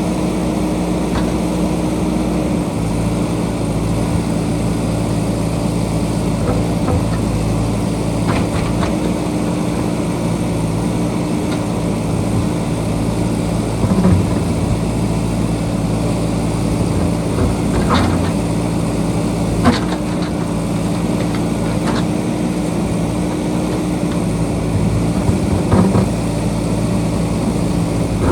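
JCB backhoe loader's diesel engine running steadily while working, with a few sharp clanks and knocks of the bucket against rock.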